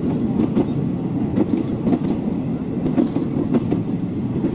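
A train running on rails, with steady rumbling and the wheels clattering in uneven clicks over the track.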